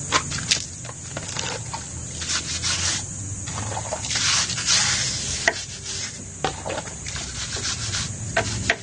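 Wet scrubbing and rubbing on a motorcycle's bodywork during a soapy hand wash: irregular scratchy strokes with a few sharp clicks and knocks, and a longer, louder stretch of rubbing about four seconds in.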